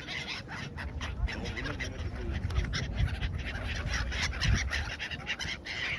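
A mixed flock of hungry park birds around someone feeding them, with waterfowl calling and chattering over one another in a dense, irregular clamour.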